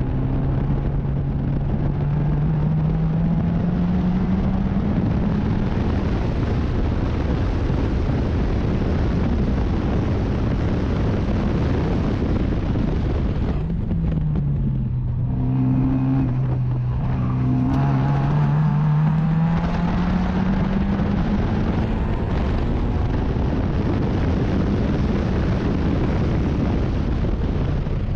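Race car engine at speed, with wind and road noise, pulling up through the revs in a slow climb. About halfway through it lifts off and the revs fall away for a few seconds, then it climbs again, and the revs drop once more at the very end.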